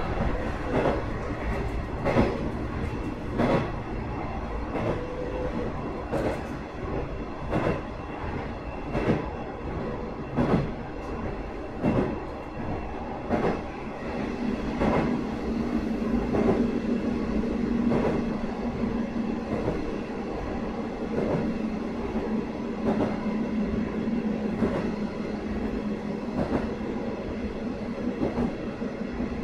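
Cabin running sound of a Sanriku Railway 36-700 series diesel railcar at speed: the wheels clack over rail joints about every one and a half seconds over a steady rumble. A steady low hum grows stronger about halfway through.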